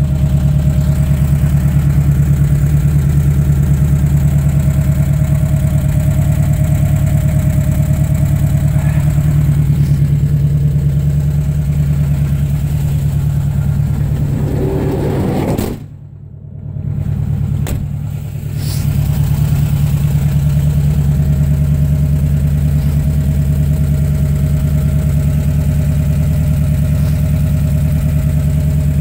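1970 Volkswagen T2 camper's 1600 air-cooled flat-four engine idling steadily. The sound drops away suddenly for a moment about sixteen seconds in, then comes back.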